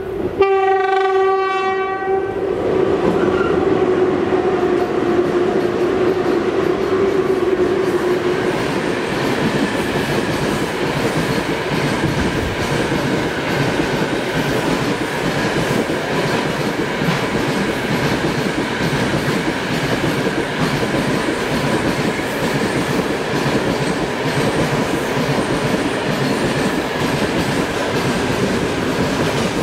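A VL10U two-section electric locomotive sounds its horn once at the start, a blast of about two seconds. A long freight train of open gondola wagons then rolls past close by, with a steady rumble and the clickety-clack of wheels over the rail joints.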